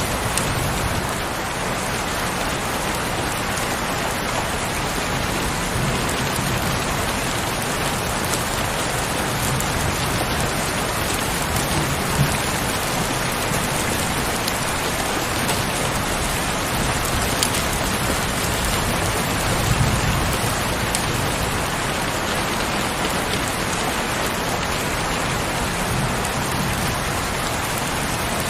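Heavy rain falling steadily, with a few louder single drop hits here and there.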